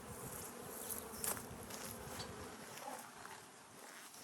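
Honeybees buzzing steadily around an opened hive, with a light tap about a second in.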